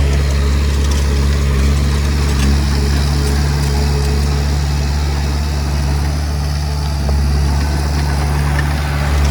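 Komatsu D20P bulldozer's diesel engine running steadily with a low, even hum.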